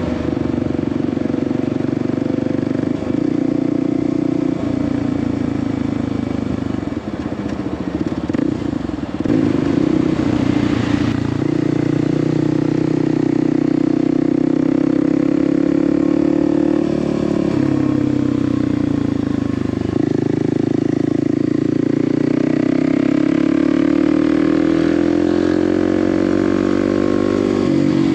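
Kawasaki KLX 300's single-cylinder engine running under way, its pitch stepping with gear changes and rising then easing off near the end. A rush of noise comes through about nine to eleven seconds in.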